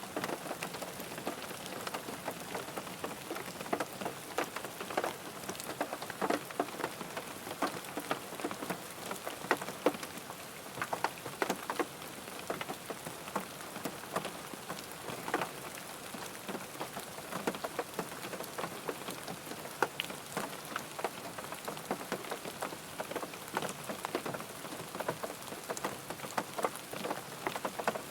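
Rain falling on a car's roof and windows, heard from inside the car: a steady patter with many individual drops tapping at irregular moments.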